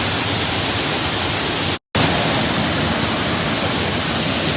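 Loud, steady rushing noise with no tone or rhythm, broken by a brief silent gap about two seconds in.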